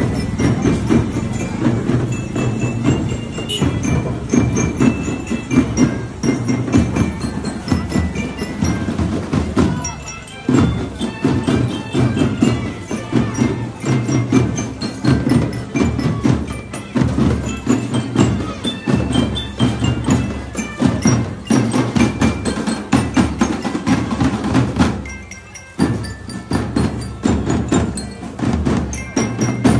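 Marching drum band playing: bell lyres ring out the tune over drums and percussion, dropping briefly in level twice, about ten seconds in and again a few seconds before the end.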